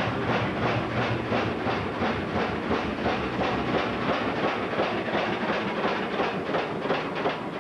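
Overloaded washing machine knocking in a fast, regular rhythm, about four knocks a second, over a steady motor hum: the drum is thrown off balance by too many clothes and the machine is malfunctioning.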